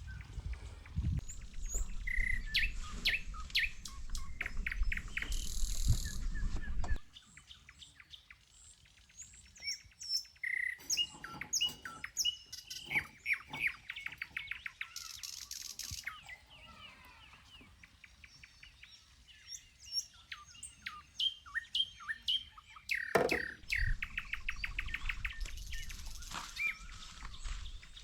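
Several wild birds chirping and calling in quick, repeated notes and trills. A low rumble underlies the first several seconds and returns near the end.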